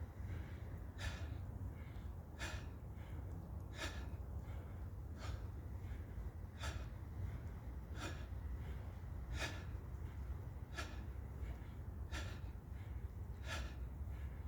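A man breathing hard through a set of bodyweight squats, a sharp breath about every one and a half seconds in time with the repetitions, over a steady low hum.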